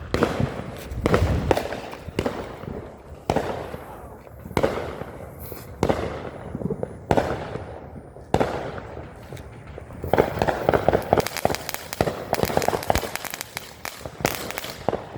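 Small consumer novelty "tank" firework going off. Sharp bangs come about one every second and a bit for the first eight seconds or so, then a dense run of rapid crackling pops from about ten seconds in, with a last bang near the end.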